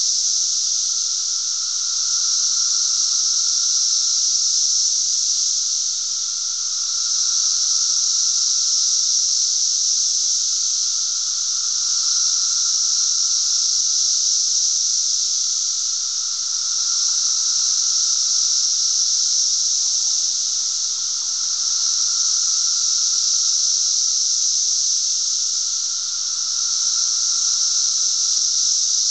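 Mass chorus of periodical cicadas (the 2007 Brood XIII emergence): a loud, unbroken high-pitched drone with a lower steady whine beneath it, swelling and easing in slow waves about every five seconds.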